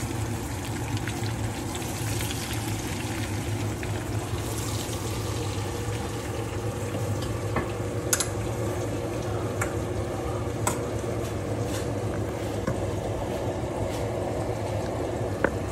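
Deep-fried brinjal pieces sizzling in oil and masala in a metal kadai, over a steady low hum, with a few sharp clinks of a metal ladle against the pan.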